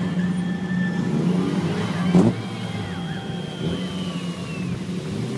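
BMW E30 drift car engines idling, with one quick rev blip about two seconds in.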